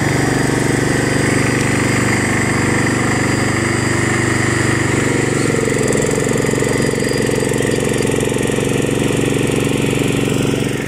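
Quadcopter camera drone's electric motors and propellers whirring steadily as it flies. The pitch shifts slightly about halfway through.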